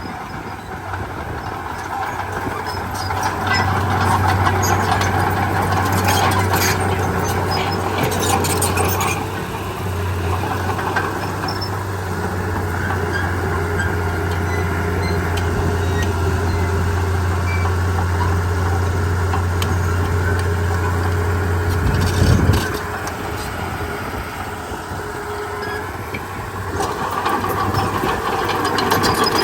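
Diesel engine of a Komatsu D31P bulldozer running steadily with a low drone that grows louder a few seconds in, with scattered metallic clanks and rattles and a louder clatter about 22 seconds in.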